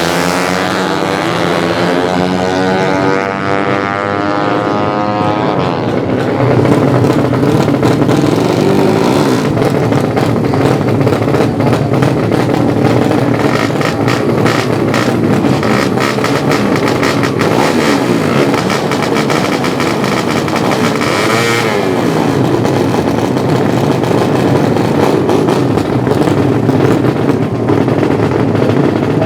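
Racing 200cc underbone (bebek) motorcycle engines running loud. One engine's pitch falls over the first few seconds, then dense engine noise holds steady, with a brief pitch sweep about three quarters of the way through.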